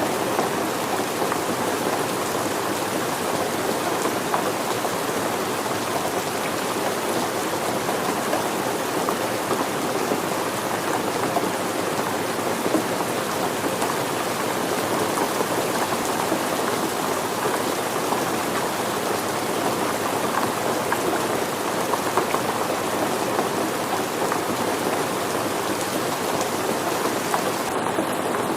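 Steady rain falling and pattering on surfaces, an even hiss with fine scattered drop ticks throughout.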